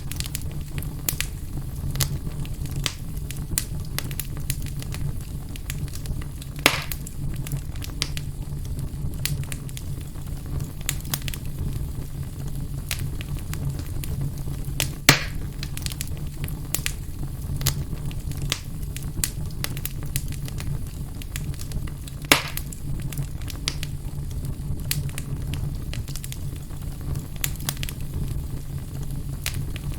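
Fire burning in a fireplace: a steady low rumble of flame under constant sharp crackles, with three louder pops.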